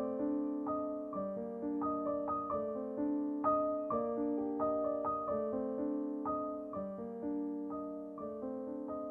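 Piano playing a slow, calm melody of single notes over held chords, a new note struck about every half second.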